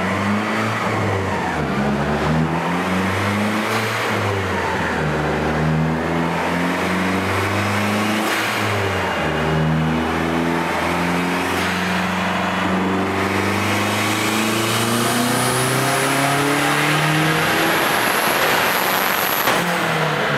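Dodge Neon SRT-4's turbocharged 2.4-litre four-cylinder engine running hard under load on a chassis dynamometer, its revs climbing and dropping back several times. A thin high whistle rises over the engine in the last few seconds.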